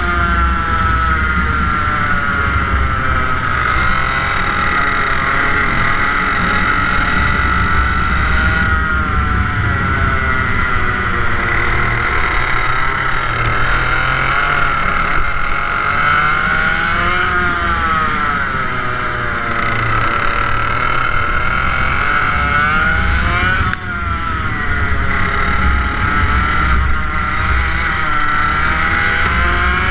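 TM K11B 100cc water-cooled two-stroke kart engine running hard, its pitch climbing and falling again and again with the throttle. A brief, sudden dip in loudness comes about three quarters of the way through.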